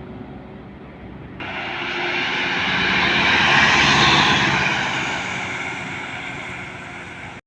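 A heavy truck passing close by: engine and tyre noise start abruptly about a second and a half in, swell to a peak about halfway through, then fade as it moves away.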